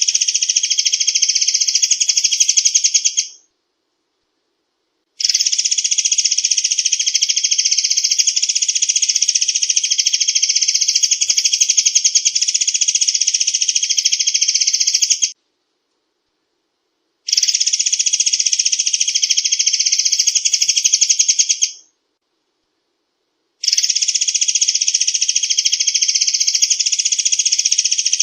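Murai air song in its rapid-fire form: a dense, fast rattle of high repeated notes in long bouts. There are four bouts separated by silences of about two seconds, and each starts and stops abruptly. It is a looped recording used as a bird-lure and training call.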